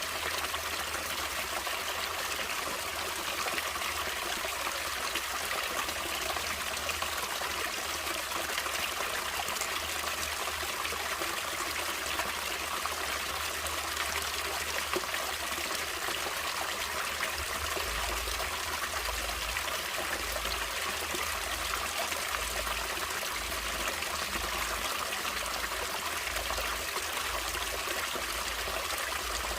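Water flowing in a natural stream, a steady trickling rush that does not change.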